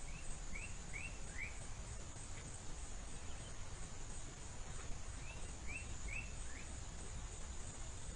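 Outdoor natural ambience: a bird calls a phrase of four short, quickly falling notes twice, about five seconds apart, over a steady high insect trill and a low rumble.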